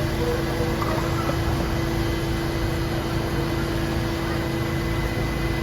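Steady mechanical hum and rumble of a subway station platform, with a constant mid-pitched tone held throughout and no sudden events.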